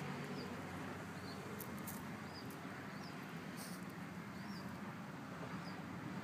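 A small bird chirping faintly in a tree: a short, high chirp about once a second, over steady outdoor hiss, with a few soft clicks between.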